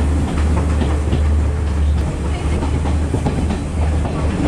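Sri Lanka Railways S14 class diesel multiple unit running along the track: a steady low rumble with the wheels clicking over the rails now and then.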